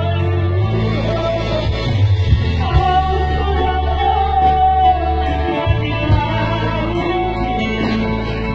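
A person singing a slow, held melody over instrumental backing with sustained bass notes and some guitar.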